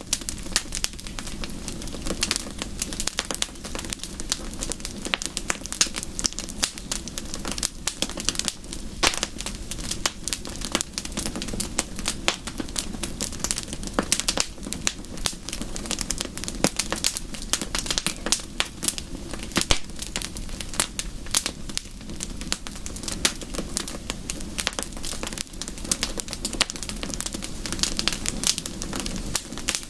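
Wood fire crackling steadily, with dense irregular pops and snaps over a low even rush.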